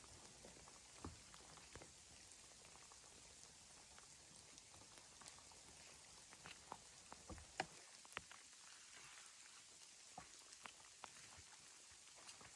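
Near silence: a faint hiss with scattered soft ticks and clicks, the sharpest about seven and a half seconds in.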